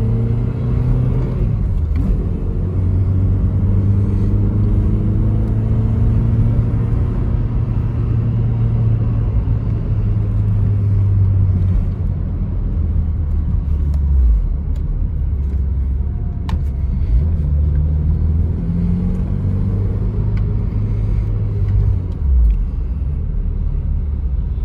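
Volkswagen Golf engine running as the car is driven, its note climbing and dropping through several gear changes.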